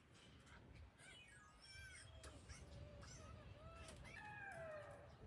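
Golden jackals howling in chorus, faint: several high, wavering wails overlap, ending in a long falling wail.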